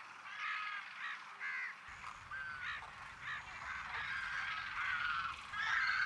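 Birds calling at a wetland: a string of short, harsh, crow-like calls that thicken into a denser run of overlapping calls near the end.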